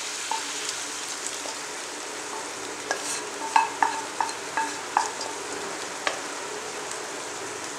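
Goat blood and onions sizzling steadily in a nonstick frying pan. From about three to six seconds in there is a run of short clicks and taps as pieces of pressure-cooked goat intestine are tipped into the pan.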